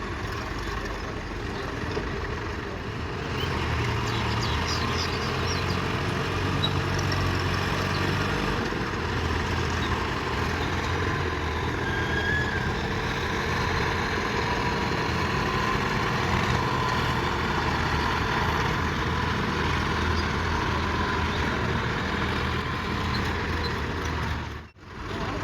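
Heavy-vehicle engine running steadily, growing louder a few seconds in, with a brief sudden cut-out near the end.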